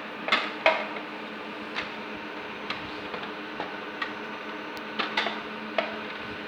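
Irregular light clicks and taps, about a dozen, from small hardware and tools being handled during server repair work, over a steady hum.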